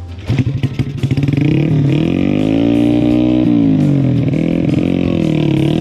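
Dirt bike engine revving, its pitch rising in long swells, dropping sharply about halfway through, then rising and falling again.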